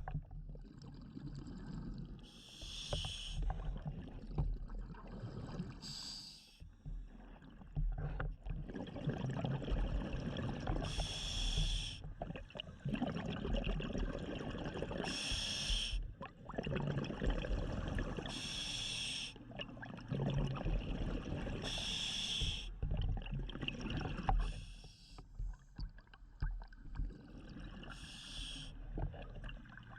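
Scuba diver breathing through a regulator underwater: rasping inhales, and a burst of exhaled bubbles every few seconds.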